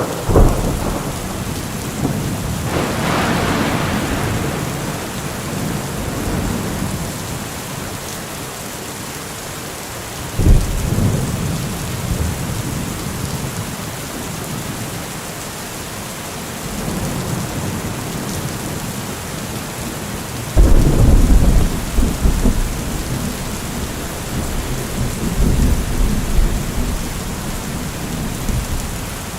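Steady heavy rain with rolling thunder: a crack right at the start, rumbles about 3 and 10 seconds in, and the loudest, deepest peal about 21 seconds in, rumbling on for several seconds.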